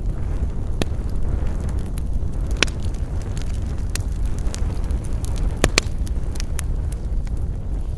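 Wood campfire burning: sharp, irregular crackles and pops over a steady low rumble, the loudest being two pops close together about two-thirds of the way through.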